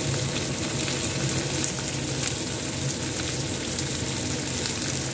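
Sliced onions and garlic frying in hot oil in a stainless steel kadhai: a steady sizzle with scattered small crackles, over a low steady hum.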